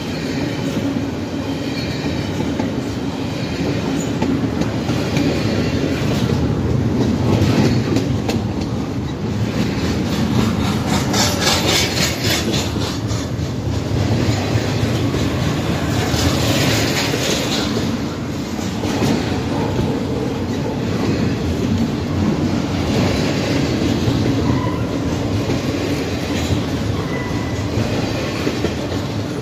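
Loaded double-stack container well cars of a Norfolk Southern intermodal freight train rolling past close by: a steady heavy rumble with steel wheels clattering over the rails. Brief high-pitched wheel squeals come about eleven seconds in and again around sixteen seconds.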